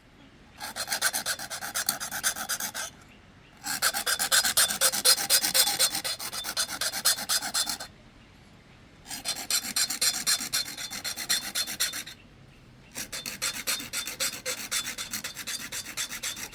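Rapid rasping strokes in four bursts of a few seconds each, with short pauses between.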